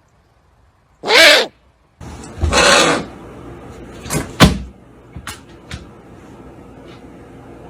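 A single short bird call with a curving pitch, then a loud noisy burst and a few sharp knocks and clicks, the second knock the loudest.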